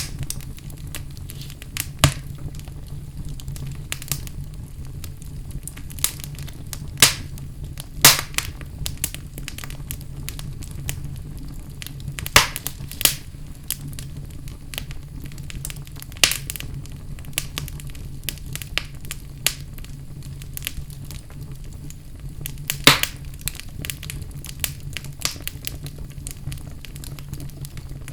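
Fire burning in a fireplace: a steady low rumble of flames with irregular sharp crackles and pops, a handful of them louder than the rest.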